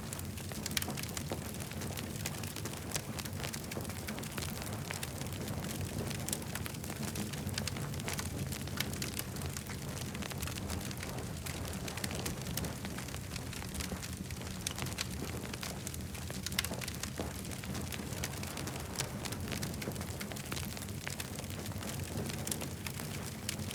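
Wood campfire crackling: frequent short, sharp crackles scattered irregularly over a steady low rumble.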